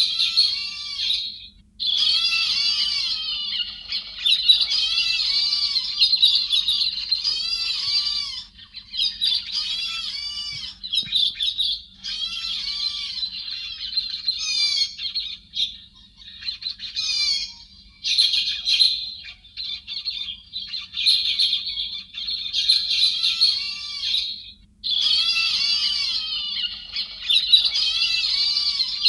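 A flock of héc xoan birds (a Vietnamese 'chim hét', a thrush) calling: rapid, overlapping arched chirps and squawks in dense bursts of several seconds with brief pauses between them. It is an edited, noise-cleaned call recording used as a lure to draw in a flock.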